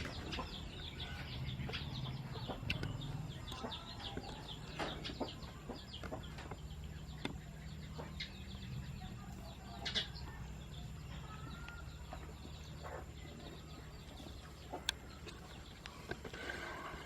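Many short, high chirping calls from animals or birds, with a few sharp clicks or taps and a steady low hum underneath.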